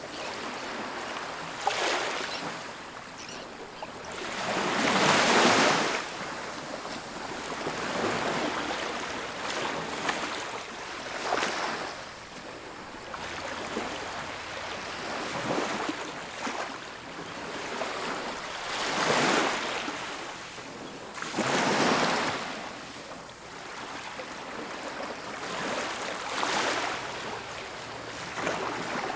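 Ocean waves breaking on a beach, a rushing wash that swells and fades with each wave every few seconds. The loudest breaks come about five seconds in and again around nineteen and twenty-two seconds.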